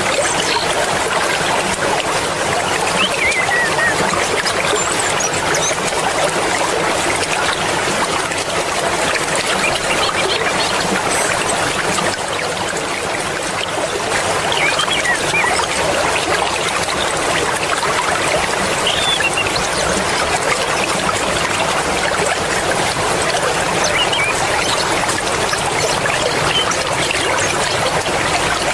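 Swift mountain river water rushing and babbling steadily.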